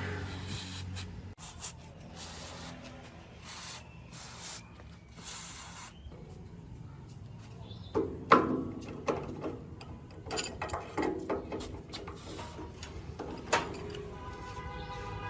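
Hand work on metal parts: short bursts of rubbing or rasping, then several sharp metallic knocks that ring briefly.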